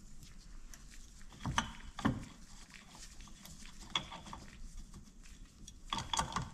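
Hand tools clicking and knocking on metal parts while the fork linkage is unhooked inside a Detroit Diesel DW-LS governor housing. There are a few separate taps, some with a short metallic ring, and a quick cluster of clicks near the end.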